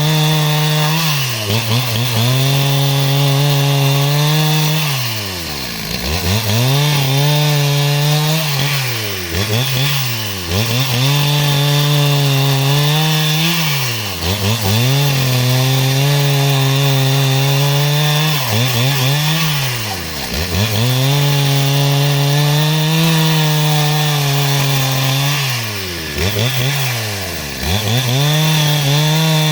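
Two-stroke chainsaw running at high revs while cutting wood into rafters. The throttle eases off every few seconds, so the engine note drops steeply and then climbs back up.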